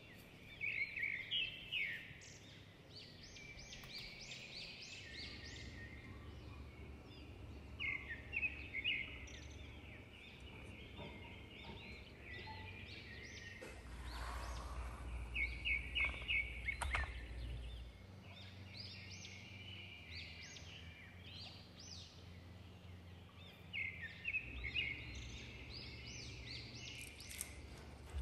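Birds chirping in short bursts of quick, repeated high notes every several seconds, over a faint low hum.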